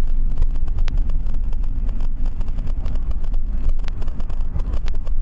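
Road and engine noise inside a moving car, picked up by a dashcam microphone: a steady low rumble with many small ticks and rattles.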